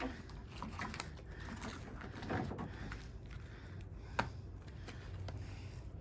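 Hands working on a welder transformer: scattered light clicks and rustles of metal and copper parts being handled, with one sharper click about four seconds in, over a low steady hum.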